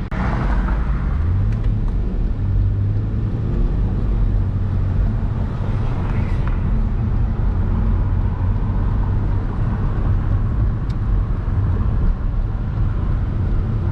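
Hyundai Genesis Coupe's 3.8-litre V6 running while the car drives, over steady road and tyre noise. The engine note rises about a second in as the car picks up speed, then holds steady.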